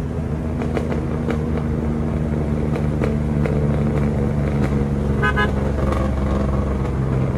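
Suzuki Cultus engine running steadily while driving, heard from inside the cabin. A short, rapidly pulsing horn toot sounds about five seconds in.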